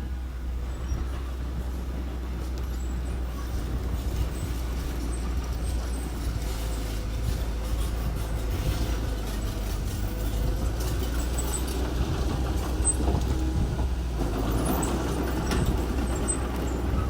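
A diesel engine of earth-moving machinery runs steadily with a deep rumble. It grows louder and rougher near the end, as if working under load or coming closer.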